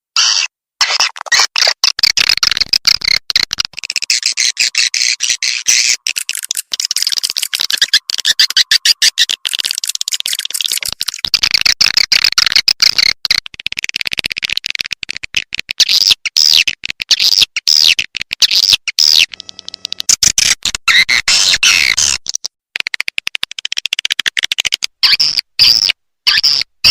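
Swiftlet lure recording of edible-nest swiftlet calls: fast, high-pitched twittering and chirping, chopped by many short gaps, used to call swiftlets into a nesting house.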